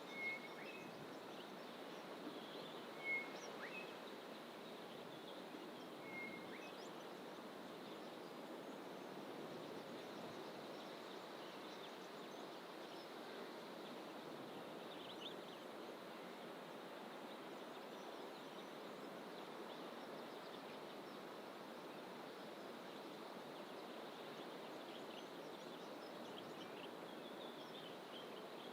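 Wild birds calling in dense coastal fynbos bush: a few short whistled notes in the first six seconds, the loudest about three seconds in, then faint higher chirps later, over a steady rushing background noise.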